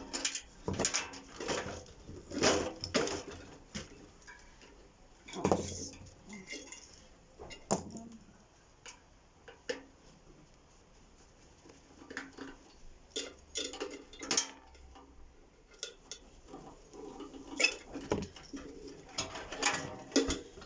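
Sheet-metal and plastic parts of a microwave clattering and knocking as it is taken apart with hand tools: irregular clicks and clunks in clusters, with a few louder knocks.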